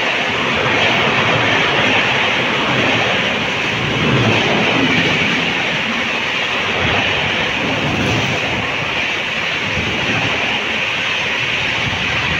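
Indian Railways passenger coaches passing close by at speed: a loud, steady rush of wheels on rail and air, with uneven low rumbling from the running gear.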